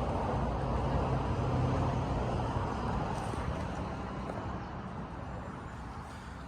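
A passing vehicle's engine and road noise, swelling to a peak about two seconds in and then slowly fading away.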